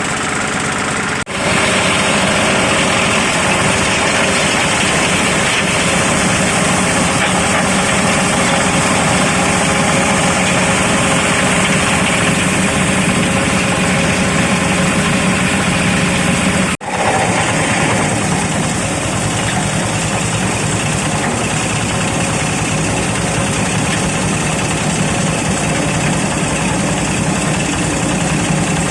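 Electric zuriat (doum palm) fruit chopping machine running with a loud, steady mechanical drone, cutting out for an instant about a second in and again about halfway through.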